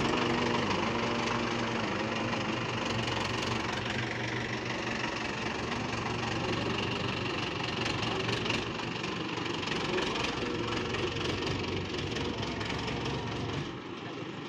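Diesel tractor engine running steadily. Its low drone drops away near the end.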